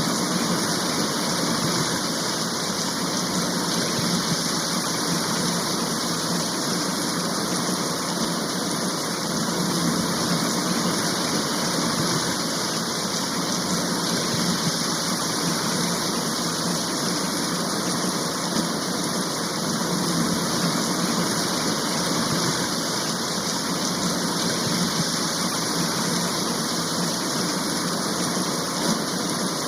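Heavy rain shower falling steadily, an even hiss with no breaks.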